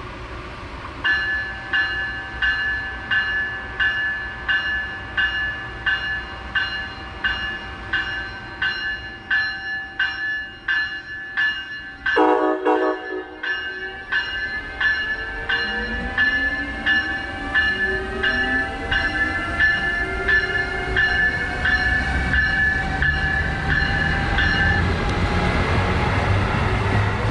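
A train at a station: a ringing tone repeating about twice a second, then a short horn blast about twelve seconds in. After that, a rising whine and a growing rumble as the train gets moving.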